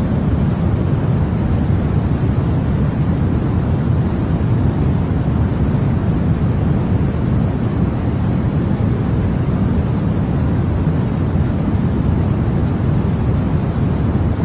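Continuous white noise played for a baby's sleep: an even, unchanging hiss with most of its energy low down, giving it a deep sound.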